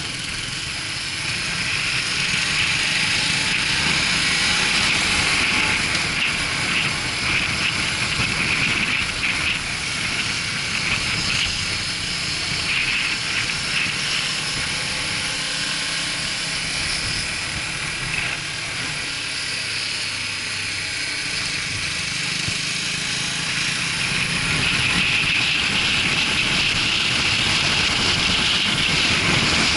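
Motorcycle on the move: steady wind rush over the camera mixed with the engine's running noise, growing louder about two seconds in and again near the end.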